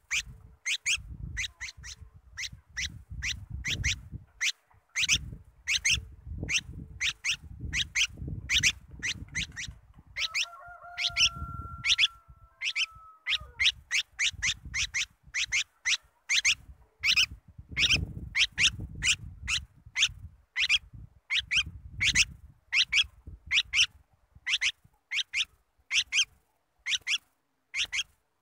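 A bulbul giving a long run of short, sharp, high calls, about two a second. A steady lower tone sounds for about three seconds midway, under the calls.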